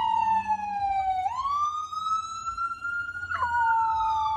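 A long, loud wailing tone that slides slowly down in pitch, then back up, and drops sharply near the end: a siren's wail, or a dog howling.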